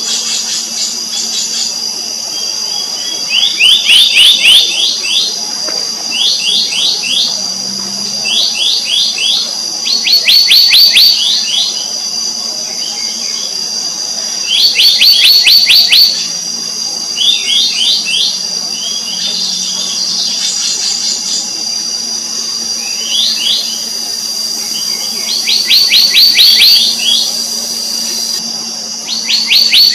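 Black-naped monarchs calling: quick runs of short, downslurred high whistled notes, each run a second or two long, repeated every few seconds over a steady high-pitched whine.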